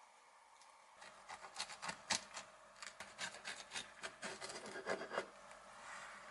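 A quick run of scraping and rubbing strokes from kitchen food preparation, starting about a second in and stopping a little after five seconds.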